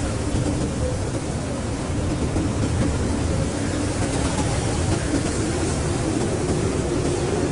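Blizzard wind blowing steadily, a dense low rushing noise that swells and eases slightly without a break.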